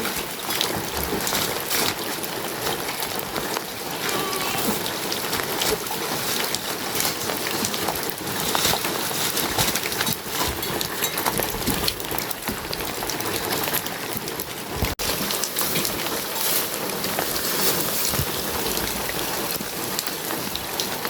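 Steady rain falling, with many close drop hits. It cuts out for an instant about fifteen seconds in.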